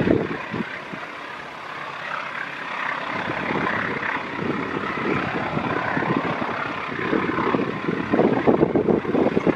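Passenger train running at high speed, a continuous rumble of wheels on the rails with irregular clattering that grows louder near the end as the last coaches pass.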